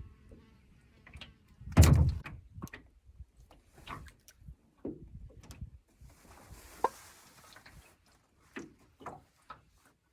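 Knocks from handling gear: one heavy thump about two seconds in, then scattered lighter knocks and clicks, with a soft hiss a little past the middle.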